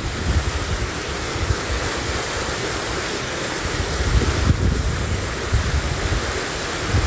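Mountain valley stream rushing steadily, with wind gusting on the microphone in low rumbles.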